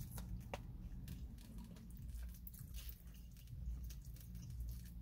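Close-up chewing of a mouthful of chili cheese fries: soft wet mouth sounds and small clicks, over a low steady hum. A plastic fork digs into the fries near the end.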